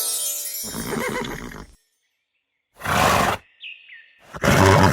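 Pony snorting: three short, noisy blows, about a second and a half apart.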